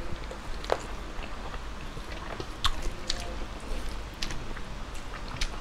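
Close-up mouth sounds of eating: chewing a handful of chicken adobo and rice, with a few sharp, wet clicks and smacks scattered through.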